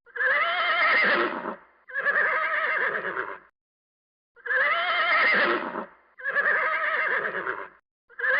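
A horse whinnying, four calls in a row, each about a second and a half long with a quavering pitch.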